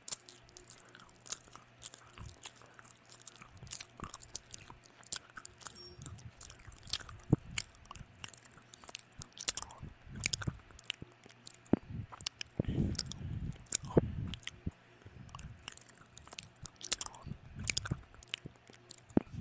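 A person chewing and biting food close to the microphone, with many short wet mouth clicks and smacks and stretches of heavier chewing.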